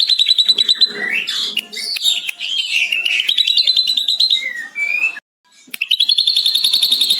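Ashy drongo singing, mimicking a lovebird's long chattering 'ngekek': fast repeated high notes and trills with a few swooping whistles. It breaks off briefly about five seconds in, then resumes with a long, fast, even trill.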